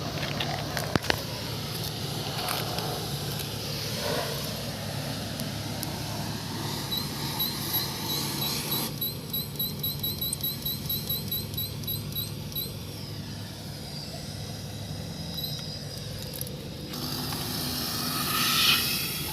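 Gas-station air compressor running with a steady low hum while it inflates a rubber ball. Midway comes a quick run of short, high beeps, about four a second, and near the end air hisses loudly.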